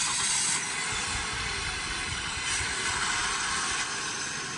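A recorded vehicle sound effect played from a children's press-button sound toy: a steady hiss that cuts off suddenly.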